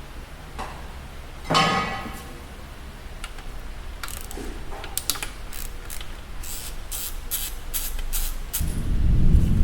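Metal parts and tools being handled while an engine is taken apart. A short ringing metallic clink comes about a second and a half in, then a run of short sharp clicks at about three a second, and a low rumble sets in near the end.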